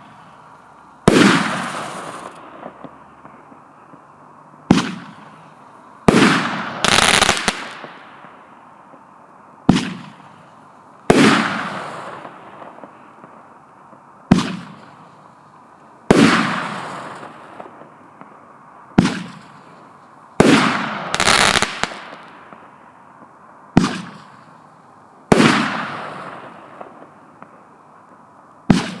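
One-inch Roman candle firing its shots one after another: a sharp bang every one to three seconds, several followed by a hissing tail that fades away over a second or two.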